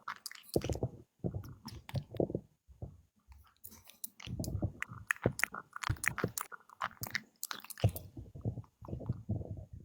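Close-up chewing and crunching: bursts of wet crunches and crisp clicks in irregular groups, with brief pauses between them.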